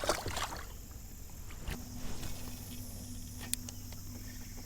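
Faint steady hiss of outdoor river ambience, broken by a short noisy burst at the start and a few light clicks and knocks. A low steady hum comes in about two seconds in.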